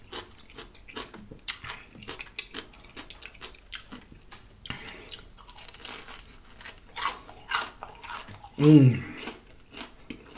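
Close-up chewing and crunching of a deep-fried corned beef egg roll: wet smacking mixed with crisp crackles of the fried wrapper. About nine seconds in, a brief voiced sound from the eater is the loudest part.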